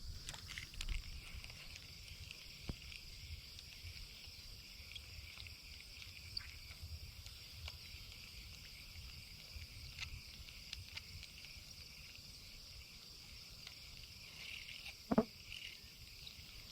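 Steady high-pitched chorus of insects such as crickets, with low wind rumble, a few small clicks, and one sharp knock about fifteen seconds in.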